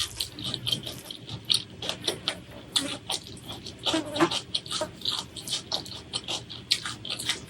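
Close-miked eating: chewing and wet mouth sounds made up of many quick, irregular smacks and clicks.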